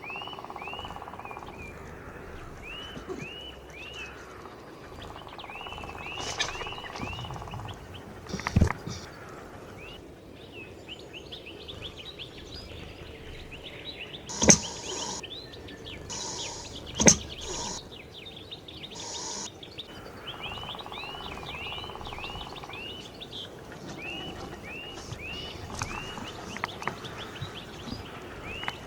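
Small birds chirping in quick runs of short repeated notes. Three sharp knocks are louder than the birdsong: one about nine seconds in and two more about fifteen and seventeen seconds in.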